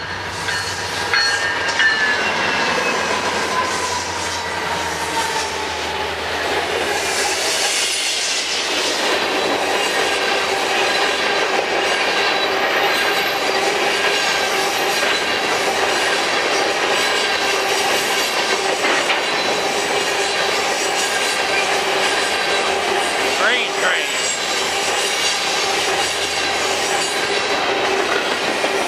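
A Norfolk Southern freight train passing close by. For about the first eight seconds a diesel locomotive goes by with a low engine hum. After that, covered hopper cars roll past with steady high-pitched steel wheel squeal and wheel clatter on the rails.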